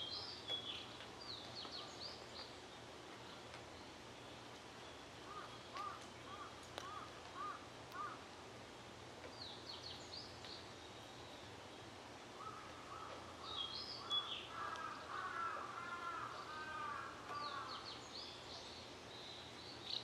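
Several wild birds calling outdoors over a faint steady low hum. Short series of high chirps come several times. A run of about five lower, evenly spaced calls comes about a third of the way in, and a denser stretch of lower calls follows past the middle.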